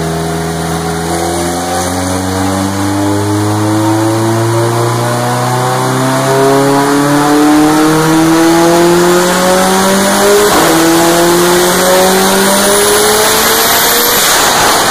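Turbocharged car engine under full load on a chassis dyno, its revs climbing steadily through a long pull. A faint high whine rises with it in the second half.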